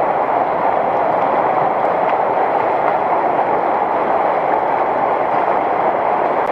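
Steady rushing of shallow river water spilling over a small weir drop inside a culvert tunnel.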